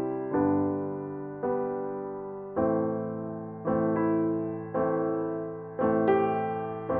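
Slow solo piano music: a chord struck about once a second, each one fading before the next.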